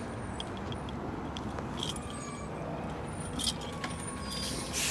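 Keys jingling with a few small clicks, over a steady low hum inside a car.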